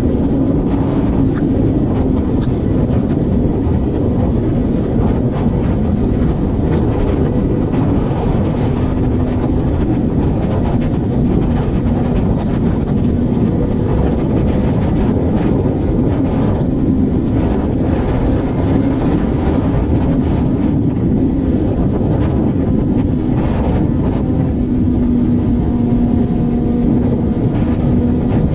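A vehicle cruising on a highway: a steady engine drone and road noise, the engine note holding a constant hum that shifts slightly in pitch now and then.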